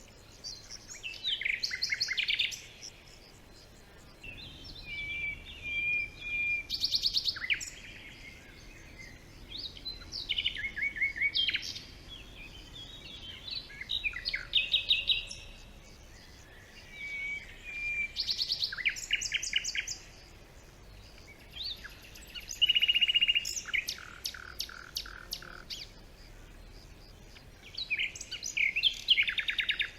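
Songbird singing in a forest: about seven short phrases of fast trills and chirps, one every three to four seconds, with quiet gaps between.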